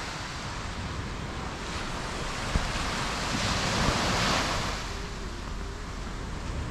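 Surf washing onto a beach, one wave swelling louder about halfway through before easing back, with wind rumbling on the microphone.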